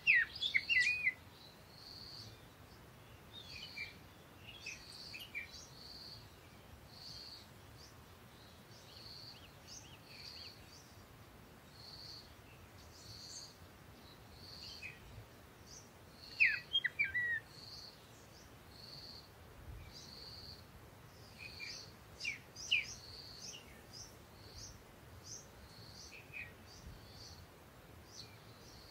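Birds chirping: a short high note repeated about once a second, with louder clusters of quick chirps falling in pitch near the start, about halfway through and a little later.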